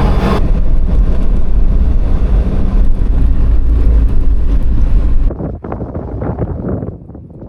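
Land Rover Defender driving on a gravel outback track: steady engine and tyre rumble that cuts off suddenly about five seconds in. Quieter crunching footsteps on gravel follow.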